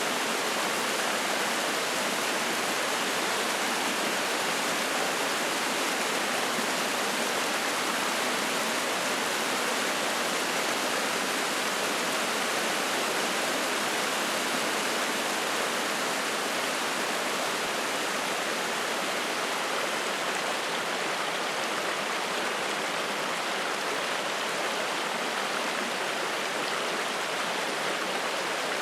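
Spring-fed mountain stream running fast over rocks: a steady, even rush of splashing water.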